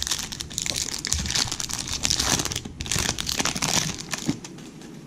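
Wrapper of a 2017 Topps Gallery baseball card pack being torn open and crinkled, a busy crackle that dies down about four seconds in.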